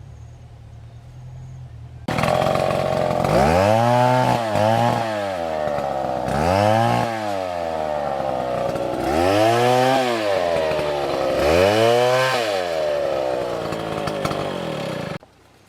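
Two-stroke chainsaw idling low, then opened up about two seconds in, the engine speed swinging up and down about five times as it works. The sound cuts off suddenly near the end.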